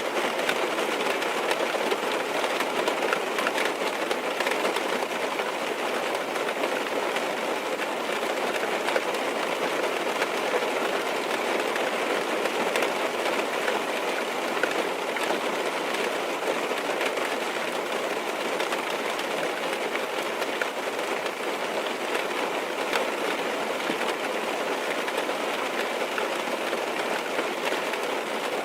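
Steady heavy rain drumming on a car's roof and windows, heard from inside the car, with many small drop ticks over an even wash of noise.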